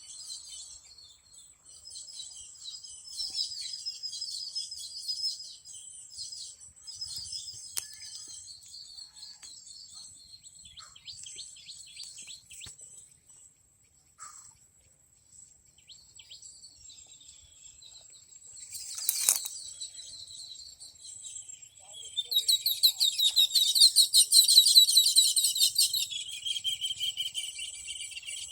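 Small birds chirping and twittering in quick high notes over a steady high-pitched tone, with a sharp click partway through and the loudest, busiest burst of chirping near the end.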